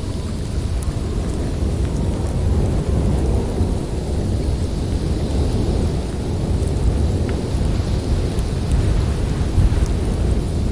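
Snowstorm wind blowing, a steady low rumble with a fainter hiss above it.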